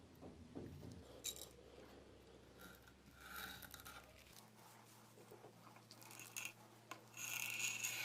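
Scattered crinkles and scrapes of craft material being handled and worked by hand, with a louder rustle near the end.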